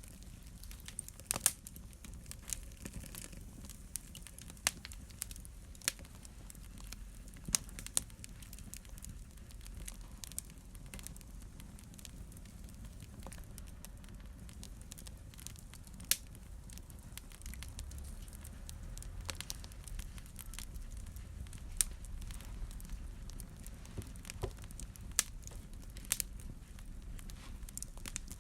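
Fire crackling in a fireplace: irregular sharp pops and snaps over a steady low rumble of flame.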